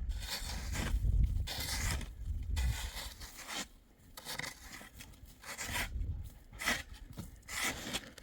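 Irregular scraping and rustling, a string of short noisy strokes, with wind buffeting the microphone during the first few seconds.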